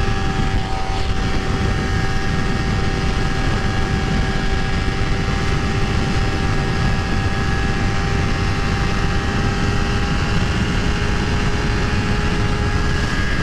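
Honda CBR250RR motorcycle engine held at steady high revs at full throttle, its pitch barely changing, under heavy wind rush on the helmet microphone.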